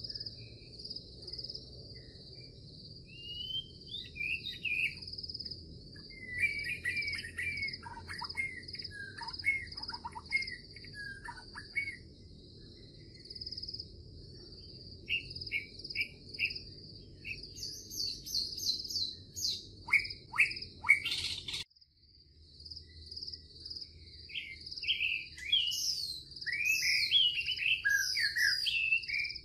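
Songbirds chirping and whistling in varied phrases over a steady, pulsing high trill, with a low hum beneath. The whole sound cuts out suddenly about two-thirds of the way through and resumes a moment later.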